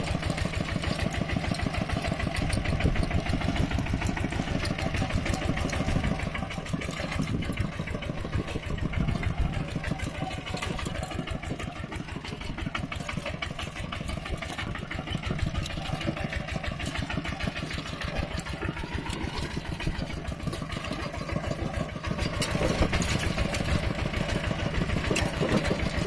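Mini tractor engine running with a rapid, even beat, a little louder near the end.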